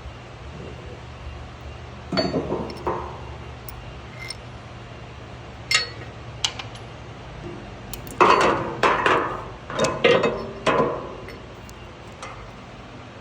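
Metal mower parts, bolts and tools clinking and clanking together as they are handled and fitted: a few knocks about two seconds in, two sharp clinks near six seconds, then a quick run of clanks in the second half.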